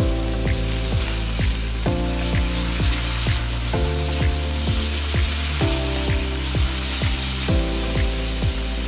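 Pork belly cubes sizzling in hot oil in a wok as they are stirred with a silicone spatula, with background music and a steady beat of about two drum hits a second.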